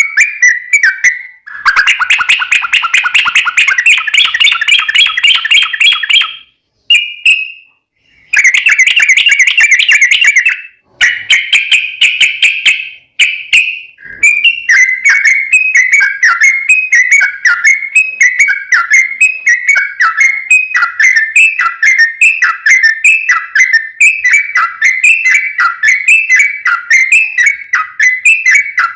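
Yellow-vented bulbul (trucukan) song. It opens with three bursts of fast bubbling trills separated by brief pauses, then runs into a long series of quick chattering phrases repeated a little under two times a second.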